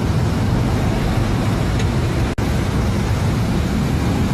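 Steady engine and road noise of a car driving, with a low hum, cut by a very brief gap in the sound a little over two seconds in.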